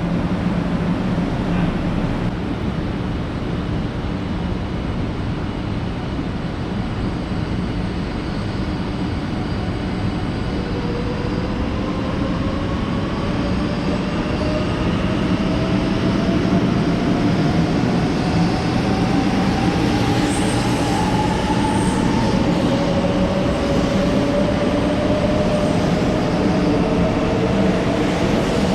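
Shinkansen train pulling out, running with a steady rumble. About a third of the way in, its traction-motor whine starts to climb slowly in pitch as it accelerates. A second rising whine takes over near the end.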